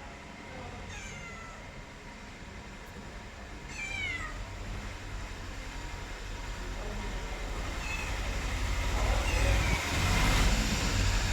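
Domestic cat meowing several times in short calls that fall in pitch, the clearest about four seconds in. A low rumbling noise grows louder through the second half.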